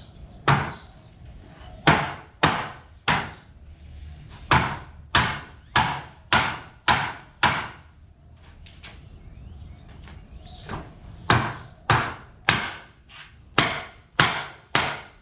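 Hammer striking wood, about two sharp blows a second, in two runs with a short pause between them. This is the sound of knocking a wooden pallet apart.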